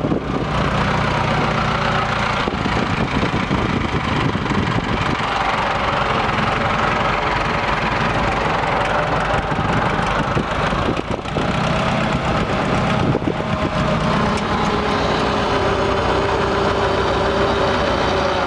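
Case IH 885 tractor's diesel engine idling steadily.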